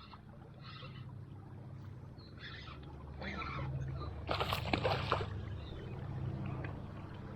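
Shallow river water sloshing and splashing, with a louder splash about four and a half seconds in.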